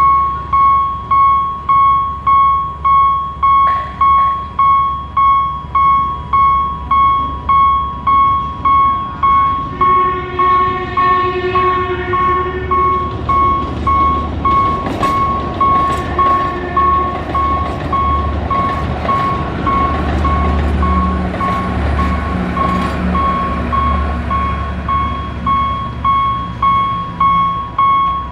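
Railway level-crossing warning bell ringing steadily at about one and a half strokes a second. About ten seconds in, an Alishan Forest Railway train sounds its horn for a few seconds, then rumbles across the crossing with its engine running under the bell before fading.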